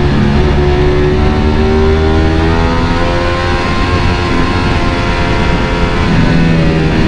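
Ducati Panigale V4 motorcycle's V4 engine running under load, its note climbing steadily as it accelerates and then dropping back near the end, with wind noise underneath.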